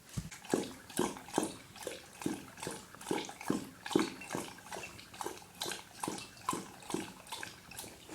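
Dog lapping water from a bowl: a steady run of wet laps, about two to three a second, starting just after the start and easing off near the end.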